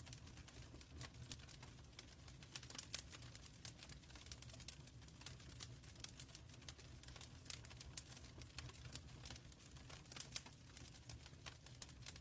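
Wood fire crackling in a fireplace: frequent sharp pops and snaps over a faint, steady low rumble of the flames.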